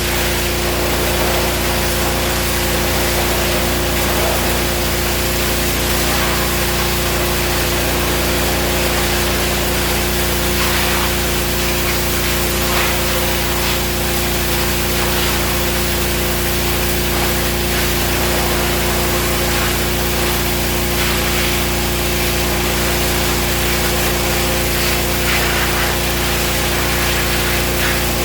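Gas-engine pressure washer running at a steady speed, its spray hissing as it hits the surface being cleaned.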